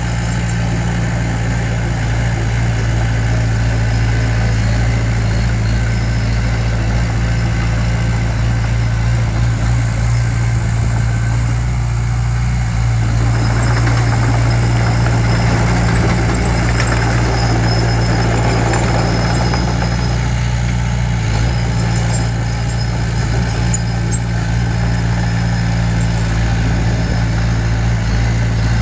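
Diesel engine of heavy construction machinery running steadily with a constant low hum, with a louder, rougher stretch about halfway through.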